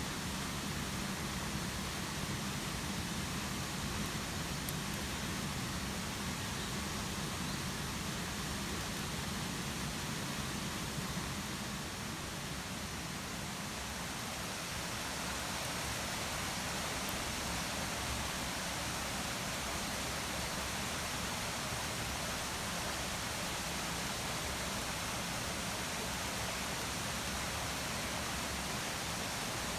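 Steady rain falling, an even hiss throughout, with a couple of faint clicks.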